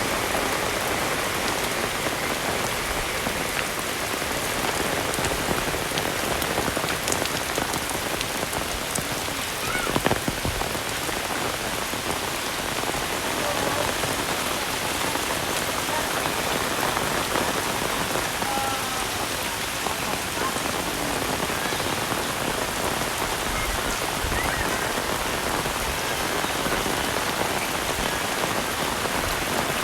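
Heavy rain falling steadily, a dense even hiss of drops on the ground and surfaces, with one brief louder knock about ten seconds in.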